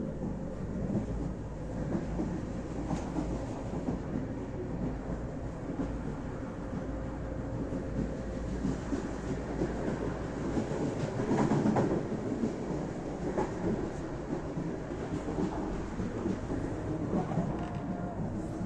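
Train running on the rails: a steady low rumble that swells briefly about eleven seconds in.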